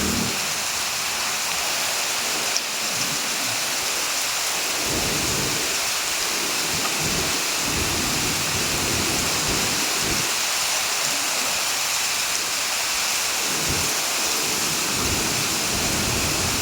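Heavy rain falling steadily, with short low rumbles coming and going every second or two through the middle.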